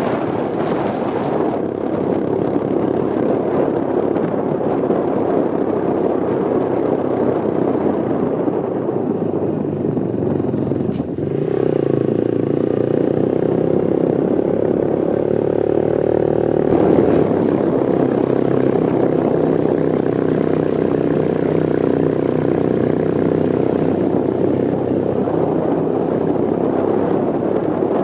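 Motorbike engine running while riding, with wind noise on the microphone. About eleven seconds in the engine note dips briefly, then comes back steadier and slightly louder.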